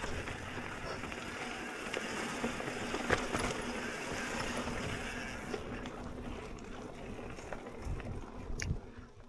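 Mountain bike riding a dirt trail: tyres on dirt and rock with scattered rattles and knocks from the bike. It grows quieter after about five seconds, with a few low thumps near the end.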